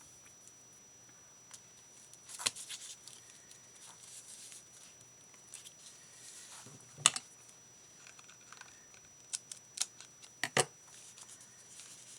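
Paper and craft pieces being handled on a desk: light rustling broken by sharp clicks and taps, the loudest about halfway through and several more close together near the end.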